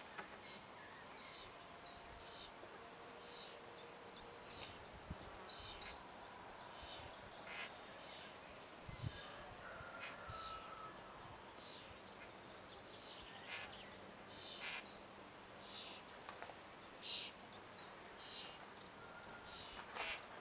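Birds chirping: short, high calls repeated irregularly over a steady outdoor background, with a couple of soft low thumps.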